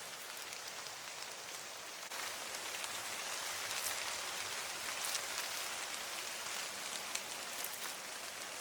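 Steady rain falling, an even patter that gets a little louder about two seconds in, with a few sharper single drops near the end.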